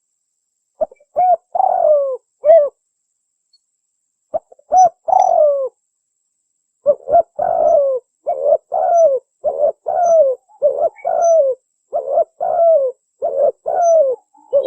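Spotted dove (tekukur) cooing in repeated phrases of short, falling coos. A short phrase comes about a second in and another near five seconds, then phrases follow one after another from about seven seconds on.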